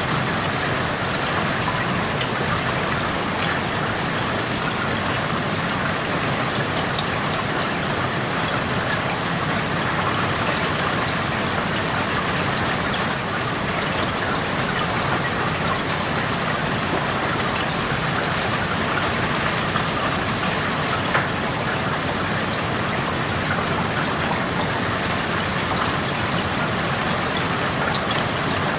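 Steady rain heard through an open window, an even patter with many small drop ticks on surfaces outside.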